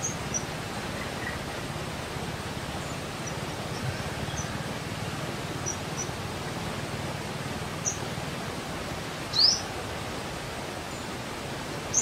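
Outdoor nature ambience: a steady background hiss with scattered short, high bird chirps, and one louder chirp sweeping upward about nine and a half seconds in.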